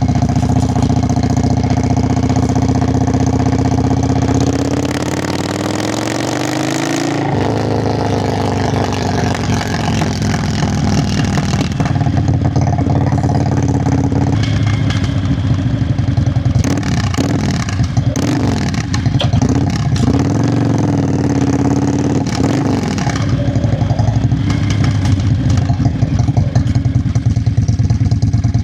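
Yamaha Virago XV535's air-cooled V-twin engine and exhaust running while riding. The engine note climbs, drops abruptly about seven seconds in, rises and falls through the middle, then settles into a steadier run.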